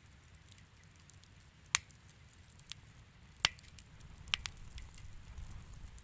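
Wood fire crackling in a fireplace: a faint low rumble with scattered small ticks and a few sharp pops, two of them close together about two-thirds of the way in.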